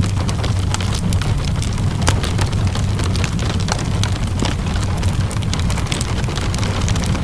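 Fireplace crackling with steady rain: irregular sharp pops and snaps over a continuous rain hiss and a steady low rumble.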